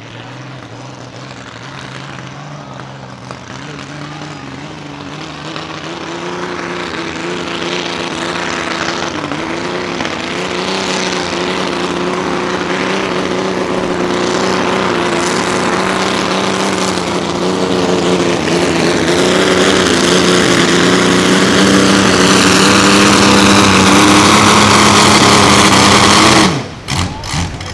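Naturally aspirated mini rod pulling tractor's engine running hard at a fairly steady pitch during a pull, growing steadily louder for most of the time, then cutting off abruptly near the end.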